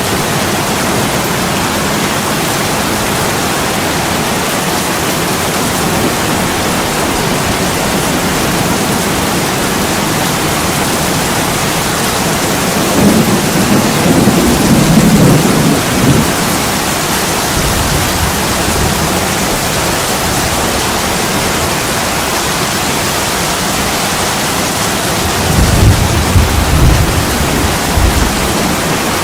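Steady heavy rain pouring on a window, with two deep rolls of thunder, one about halfway through and one near the end.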